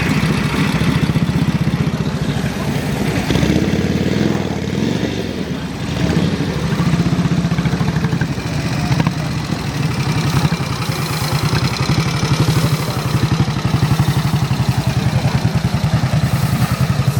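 Motorcycle engine running close by, a steady rapid throbbing idle with a brief dip and change in pitch about four to six seconds in.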